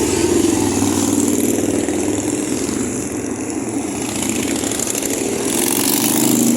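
Motorcycle engines running on the street, a steady engine note that swells again near the end.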